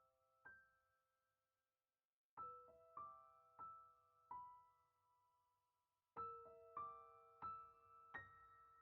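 Quiet background piano music: single notes struck one after another in short melodic phrases, each ringing on, with a brief pause about two seconds in.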